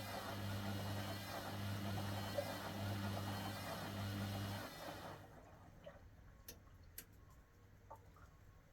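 Hoover WDYNS654D washer-dryer running a quick wash: a steady hum with rushing water that cuts off about halfway through, then a few faint clicks.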